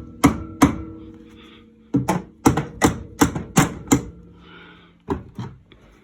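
Dead-blow rubber mallet striking a stuck cylinder on an XC 500 snowmobile engine, blows coming in quick runs about three a second, each leaving a brief metallic ring; the cylinder is seized on its studs and is being knocked loose.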